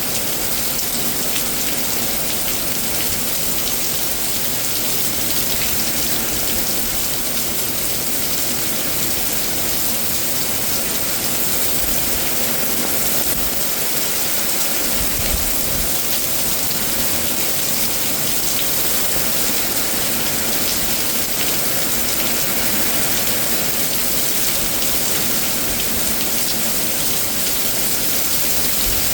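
Rain pouring down steadily in a severe thunderstorm, an even unbroken hiss of downpour.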